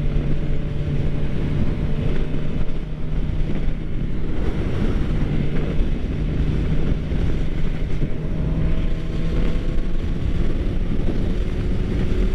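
Suzuki GSX-R600 inline-four engine running steadily at cruising speed, with the engine note rising slowly toward the end, under heavy wind noise on the microphone.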